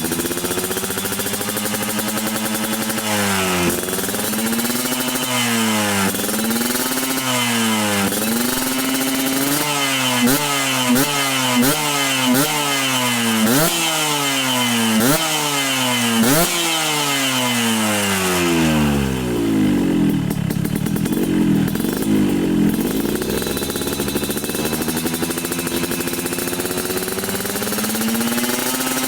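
Yamaha RX-King two-stroke single-cylinder engine revving through an aftermarket racing exhaust. It gives a string of quick throttle blips, roughly one a second, each rising and dropping back. Later it settles to a steadier run with a wavering pitch.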